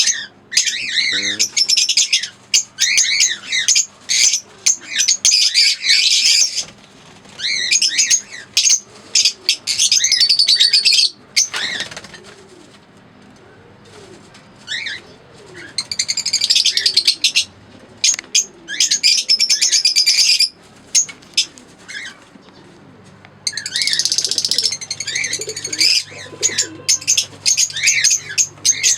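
Lovebirds chattering: dense bursts of shrill, rapid chirps and squeaks that stop for a few seconds twice, with a softer, low, repeated call underneath.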